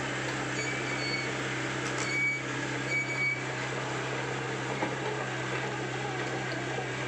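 Komatsu PC75UU excavator's diesel engine running steadily, with three short high-pitched tones about a second apart in the first half.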